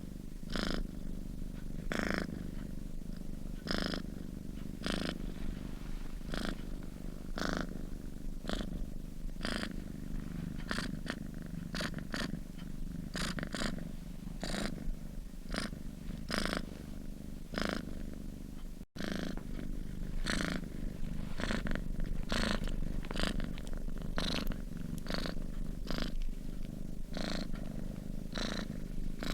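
Sleeping domestic cat purring steadily, a low continuous purr pulsing with its breaths about once a second. The sound drops out for an instant about two-thirds of the way through.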